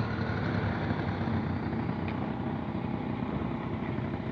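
Motorcycle engine running steadily at an even speed, not revving.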